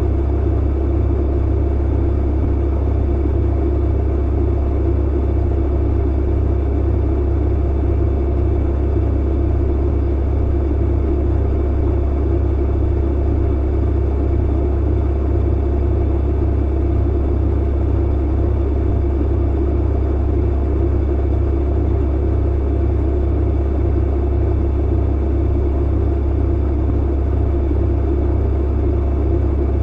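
Clothes dryer running steadily: a continuous low hum and rumble from the motor and turning drum, with a fainter whir above it.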